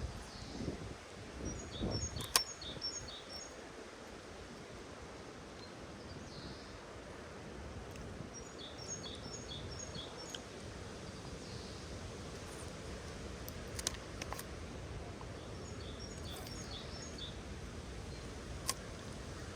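A songbird repeating a short phrase of quick high chirps three times, about every seven seconds, over a steady low outdoor rush. A few sharp clicks sound in between.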